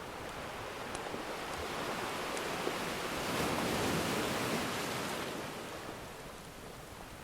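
Ocean surf: a wave builds, is loudest about halfway through, then washes back and fades. A few faint, sparse crackles from a wood fire sound over it.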